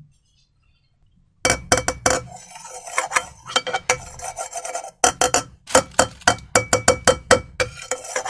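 A utensil clinking and scraping against a glass bowl as slime is stirred: a quick, uneven run of clinks that starts about a second and a half in, with a brief gap near the middle.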